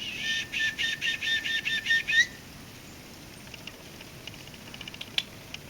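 A small bird calling close by: a rapid run of about ten harsh, high notes lasting about two seconds, then stopping abruptly. Faint soft ticks follow, with one sharp click about five seconds in.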